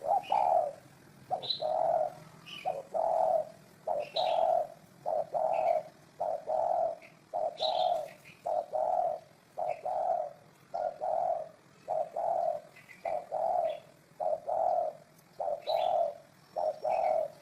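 Spotted dove cooing over and over in a low voice, about one coo a second, some coos coming as a short note followed by a longer one. Short high chirps of small birds are heard between the coos.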